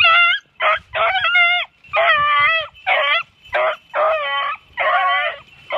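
Pack of hunting hounds baying on a hot trail after jumping game: a run of about ten loud, drawn-out bays in quick succession, with more than one dog's voice at times.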